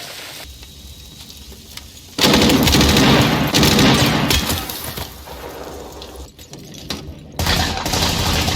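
Film battle gunfire: after a low rumble, heavy automatic and rifle fire breaks out suddenly about two seconds in, many shots overlapping in rapid volleys, eases briefly around six seconds in, then picks up again.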